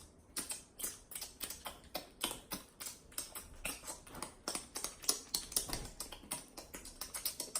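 A person licking and sucking buffalo sauce off their fingers: a quick, irregular run of wet smacking clicks, about four or five a second.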